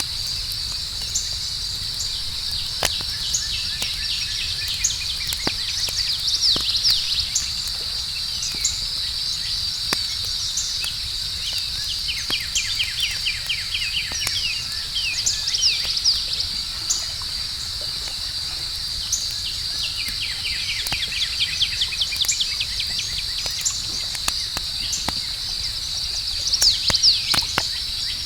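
Campfire crackling with scattered sharp pops, over a steady high-pitched chorus of crickets. A bird calls several times in rapid trills.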